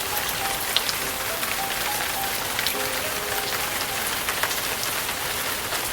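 Heavy, steady hurricane rain falling, with faint music underneath.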